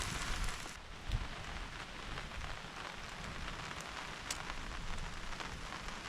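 Steady rain falling, with occasional sharp ticks of single drops.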